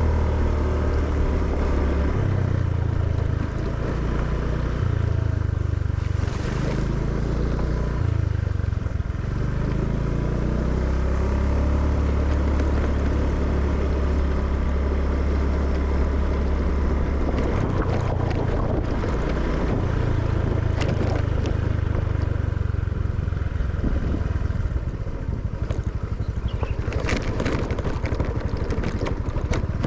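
Motorcycle engine running while riding along a rough road, its note stepping up and down with speed, with a few knocks near the end.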